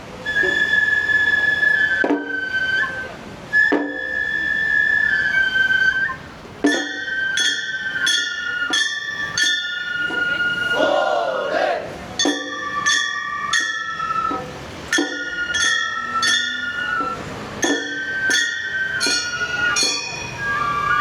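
Gion bayashi festival music: transverse bamboo flutes play a held, stepping melody. From about a third of the way in, small hand-held brass gongs are struck in a quick, even rhythm, about two strikes a second.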